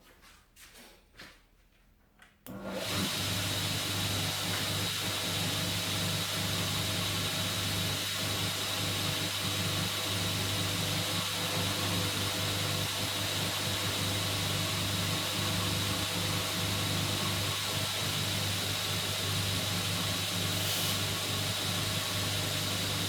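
Homemade belt grinder switched on after a few soft clicks: its electric motor and sanding belt run at a steady speed, with a low hum under an even hiss.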